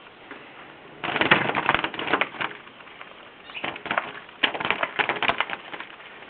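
A small trapped bird beating its wings against a surface in two rapid clattering spells, with a short pause between them.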